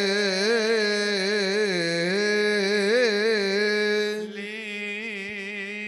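A single male voice singing a long melismatic note of Coptic liturgical chant, holding the pitch with small ornamental turns. About four seconds in it becomes softer and continues on the melody.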